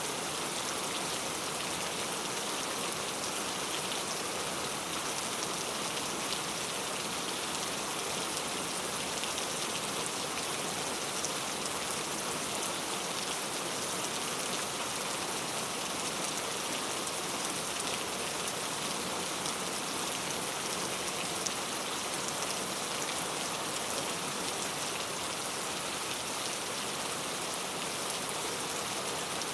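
Heavy rain falling steadily and pattering on hard street surfaces: an even hiss dense with small drop ticks.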